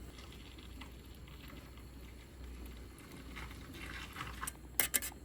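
Faint liquid sounds from cooking, then a few sharp clicks near the end.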